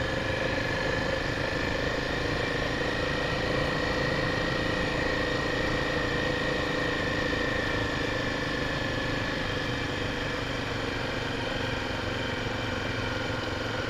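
Honda XR 250 Tornado's single-cylinder engine running at a steady, unchanging speed, with a steady high tone held above the engine note.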